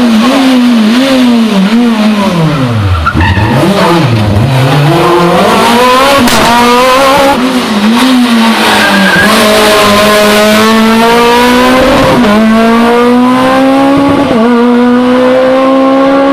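Rally car engine at full competition revs on a tarmac special stage: the revs blip and fall steeply twice about three and four seconds in as it brakes and slows, then climb steadily under acceleration, with a gear change about twelve seconds in.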